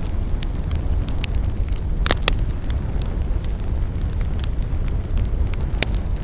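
Wood fire burning in a fireplace: a steady low rumble with scattered crackles and pops, two sharp pops about two seconds in and another near the end.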